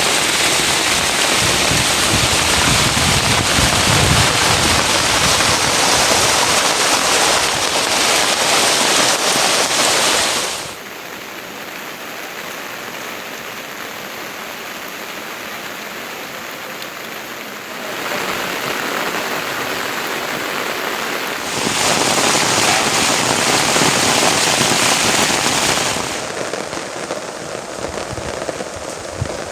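Heavy rain falling as a dense, steady hiss. It drops abruptly to a softer patter about ten seconds in, comes back up in two steps, and eases again near the end.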